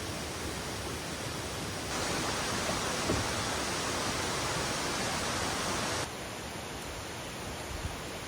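Steady rush of a mountain valley stream. It gets louder suddenly about two seconds in and drops back suddenly about six seconds in.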